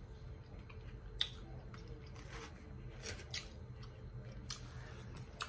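A person chewing food close to the microphone, quietly, with about five sharp wet mouth clicks and smacks scattered through it.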